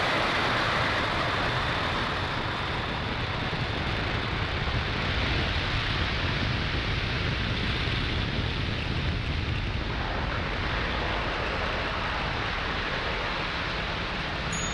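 Falcon 9 first stage's nine Merlin engines in ascent just after liftoff: a steady, dense rumble that slowly fades as the rocket climbs away.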